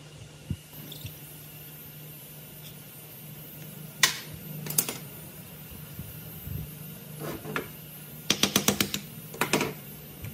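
A few sharp knocks and clicks over a steady low hum, with a quick run of about seven clicks shortly after eight seconds in.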